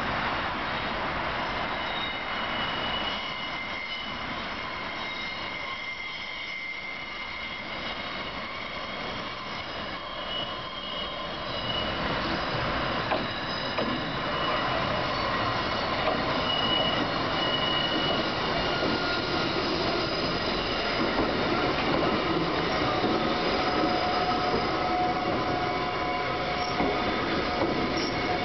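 A four-car vintage Kotoden electric train, led by car 300, rolls slowly into a terminus platform, its wheels squealing in several high steady tones. It grows louder about halfway through as the cars come alongside and pass.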